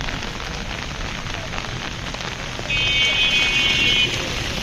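Heavy rain pouring down on the street. About two and a half seconds in, a high-pitched steady tone cuts in over the rain for more than a second and then stops.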